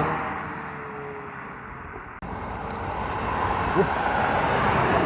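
A car engine passing by and fading away, its note dropping as it goes. About two seconds in the sound cuts abruptly to another car approaching, its engine growing steadily louder.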